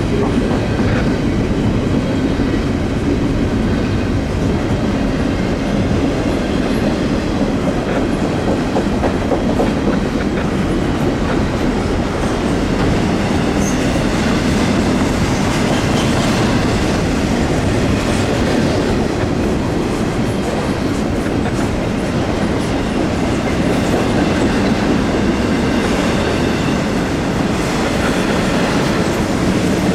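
Double-stack intermodal freight cars of a CN train rolling past close by: a steady, loud rumble of steel wheels on the rails that holds even throughout.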